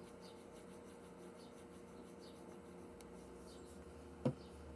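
Faint rubbing and scratching of paper being handled and pressed down while gluing paper leaves onto a journal page, over a steady low hum. A brief voiced sound comes near the end.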